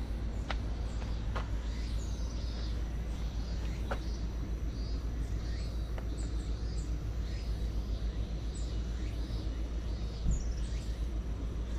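Small birds chirping again and again over a steady low rumble, with a few sharp clicks.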